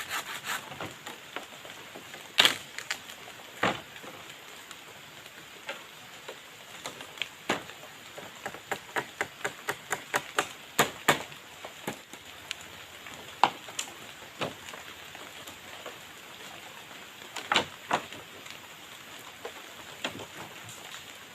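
Steady rain with scattered sharp knocks of wood being worked by hand, including a quick run of blows about halfway through.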